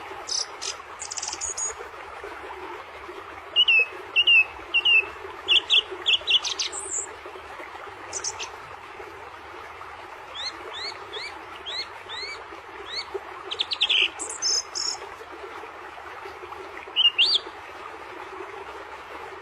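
Small birds chirping and tweeting in scattered bursts of short high notes and quick upward-sliding whistles, over a steady low background noise.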